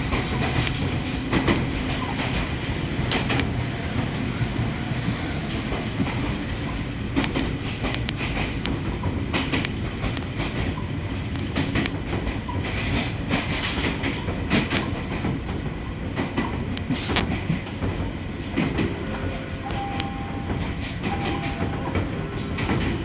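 Ohmi Railway local electric train running along the track, heard from inside the carriage: a steady low rumble with the wheels clicking over rail joints. A few short steady tones come in near the end.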